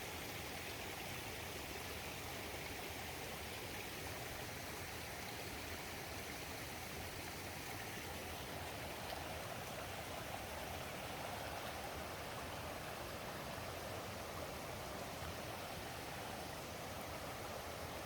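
A mountain stream flowing and splashing steadily.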